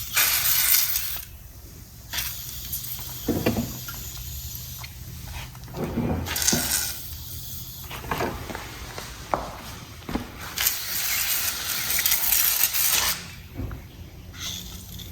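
Aerosol can of PB Blaster penetrating fluid spraying onto rusty, grimy engine primary case parts in about four hissing bursts, the last and longest lasting a couple of seconds, with a few light knocks in between.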